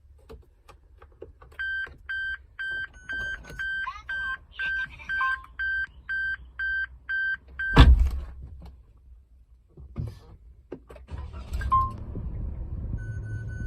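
Suzuki Spacia (MK53S) dashboard warning chime beeping evenly about twice a second, then the engine starting with a short loud burst about eight seconds in. The engine then settles to a low steady idle hum that grows near the end, with a couple more single chimes.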